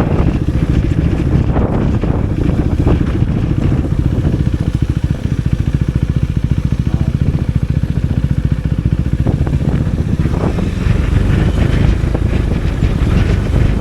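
KTM Duke motorcycle engine running steadily under way, with wind buffeting the microphone.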